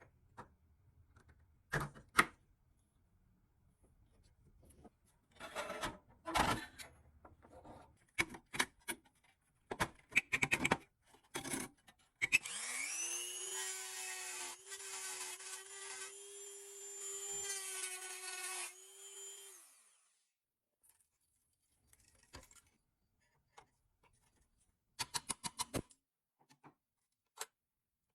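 Scattered clicks and scraping of hand work, then a small electric power tool spins up about twelve seconds in, runs at a steady pitch for about seven seconds and winds down, followed by a few light clicks.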